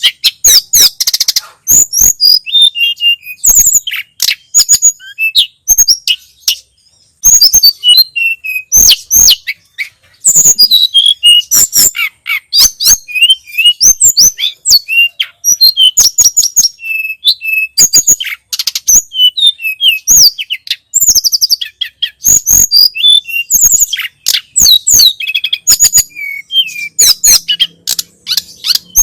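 Tledekan gunung (sulingan gunung) songbird singing a long, fast, varied run of high chirps, trills and short whistles that sweep up and down, broken by a few brief pauses.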